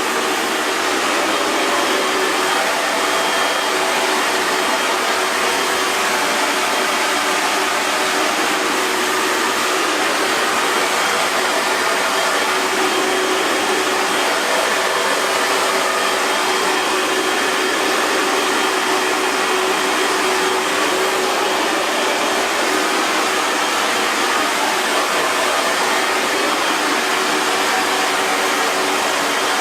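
Hair dryer blowing steadily, an even rushing hiss of air with a faint motor hum underneath.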